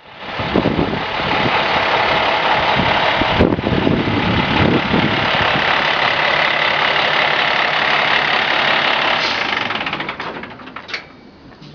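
Rosenbauer Maverick fire truck's engine running steadily, then dying away about ten seconds in as its Green Star system shuts the engine off by itself.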